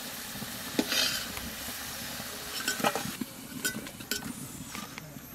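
Potato wedges sizzling in hot oil in an iron wok as a metal spatula lifts them out, with several sharp clinks of the spatula against the wok and a steel bowl.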